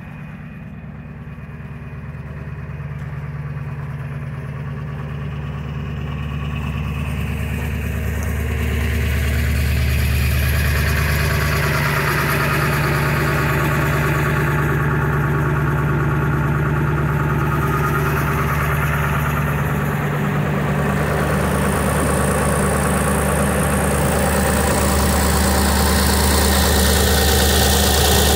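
Ford 7.3 PowerStroke turbodiesel V8 idling steadily while warming up after a cold start at −8 °C. It grows louder over the first ten seconds or so, then holds steady.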